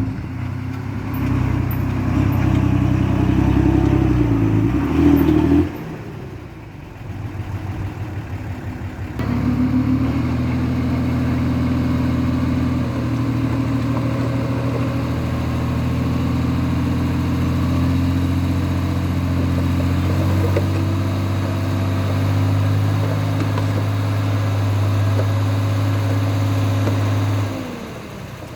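Heavy construction machine's diesel engine running hard, dropping back for a few seconds about six seconds in, then running loud and steady again until it eases off near the end.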